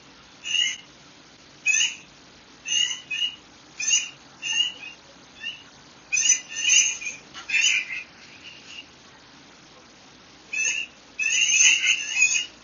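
Birds calling in short, high chirps, one every second or so with a pause in the middle, then a quick, louder run of chirps near the end.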